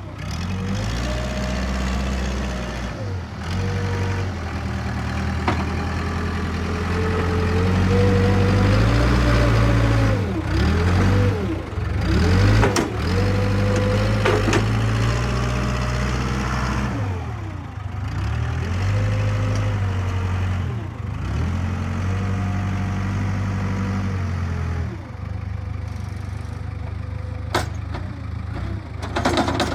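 Takeuchi skid steer's diesel engine working soil, its pitch rising and sagging over and over as the hydraulics take load. For the last few seconds it settles to a quieter, steady run, with one sharp click.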